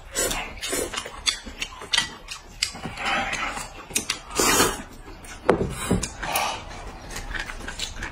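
People eating noodles: chewing and slurping, with many short, sharp clicks scattered through.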